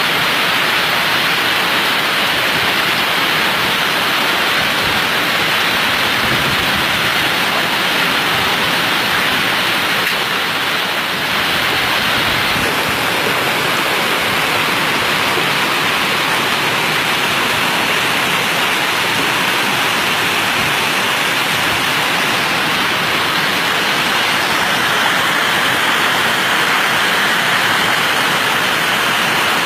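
Heavy rain and running water making a steady, loud rush that never lets up.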